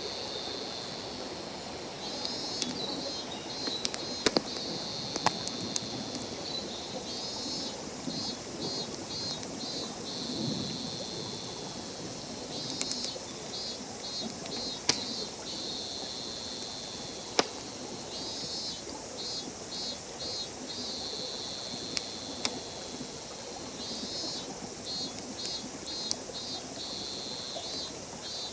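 Wood campfire crackling with sharp, scattered pops over the steady rush of a nearby stream. A high, pulsed chirping call repeats about every five to six seconds.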